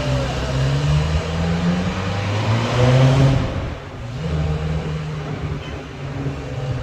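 Classic Alta car's engine running, swelling in pitch and loudness about three seconds in, then dropping back sharply just before four seconds and settling to steady running.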